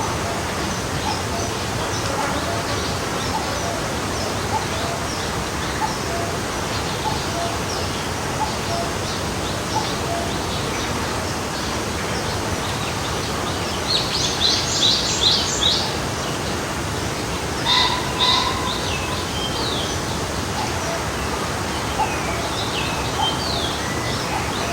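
Forest stream flowing steadily, with birds chirping over it; a quick run of high bird notes about 14 seconds in, another call about 18 seconds in, and more calls near the end.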